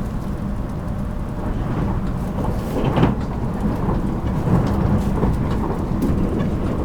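Running noise inside a JR Kyushu 783 series electric train's motor car: a steady low rumble of wheels on rail with a motor hum, and a few sharp knocks from the wheels crossing rail joints.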